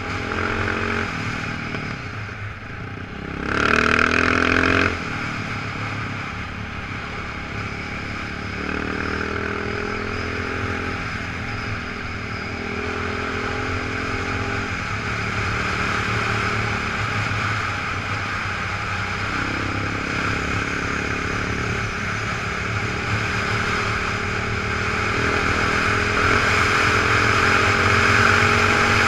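Off-road motorcycle engine running while being ridden, its pitch stepping up and down with throttle and gear changes, with a brief louder rev about four seconds in.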